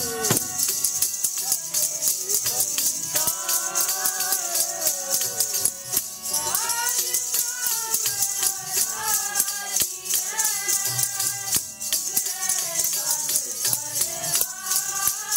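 Devotional hymn singing with voices carrying a gliding melody over a fast, continuous jingling rattle rhythm.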